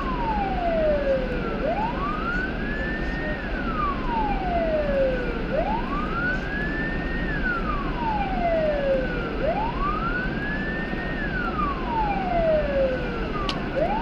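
Police car siren wailing, gliding slowly up and down in pitch about once every four seconds, over steady road and engine noise.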